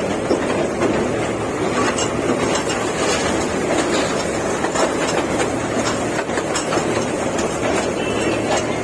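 Amusement-park toy train running along its track: a steady rumble of the ride with small irregular clicks and clatter of the wheels on the rails.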